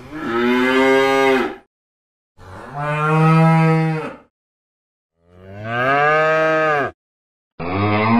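Cows mooing: three long moos of about one and a half to two seconds each, separated by abrupt silences, with a fourth moo starting near the end.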